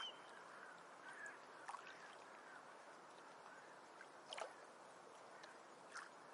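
Faint ocean waves washing on a shore: a steady hiss of surf with a few brief sharp sounds.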